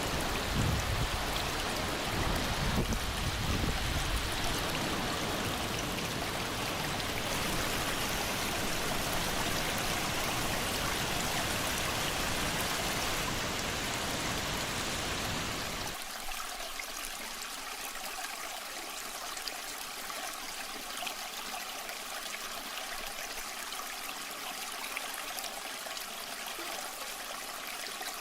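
Waterfall water rushing in a steady, even hiss, with some low rumbling in the first few seconds. About sixteen seconds in, the sound suddenly turns quieter and thinner, losing its low end.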